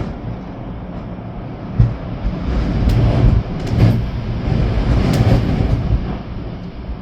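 Storm-force wind gusting in swells, with rain, the gusts rumbling low across the microphone. A few sharp taps sound through it.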